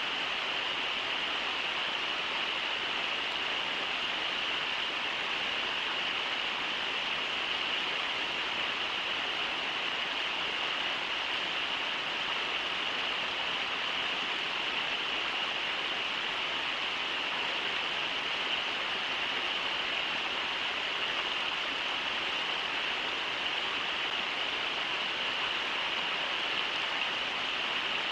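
Steady rushing of river water running over shallow riffles, a constant even hiss with no breaks.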